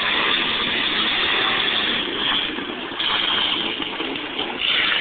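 Tuff truck race trucks' engines running hard on an obstacle course, the noise swelling and easing as they climb and come off the humps.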